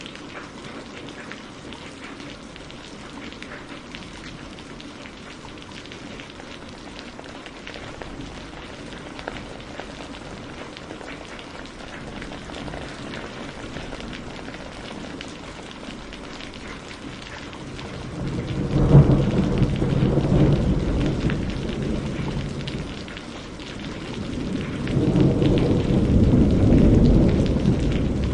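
Steady rain falling, with two long rolls of thunder: the first cracks in suddenly about two-thirds of the way through and fades, and a second rumble builds just after and carries on to the end.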